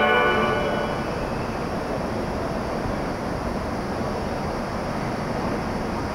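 A platform departure melody fades out within the first second, then a steady rumbling noise from the 583-series electric train standing at the platform and the station around it.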